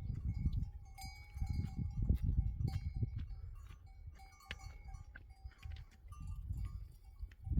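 Bells on grazing goats and sheep clinking and ringing again and again, over an uneven low rumble.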